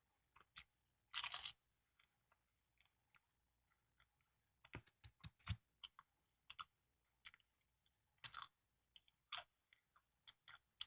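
Close chewing and biting of a custard-cream bungeoppang (fish-shaped pastry), with short crisp crunches in scattered bursts and quiet gaps between; the louder bites come about a second in, around the middle, and near the end.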